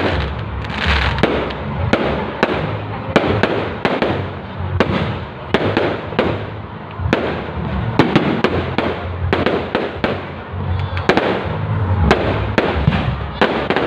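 Fireworks display going off in rapid succession: many sharp bangs and crackles, several a second, over a steady low rumble.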